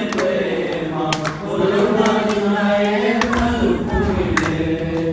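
A choir singing in a slow, chant-like style, several voices holding long notes, with a few sharp clicks scattered through.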